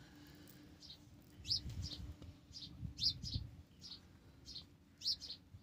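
Small birds chirping: a string of short, high chirps, several a second at times, with brief gaps.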